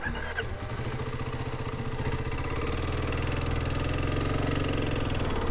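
Kawasaki KLX 300's single-cylinder engine running steadily at idle.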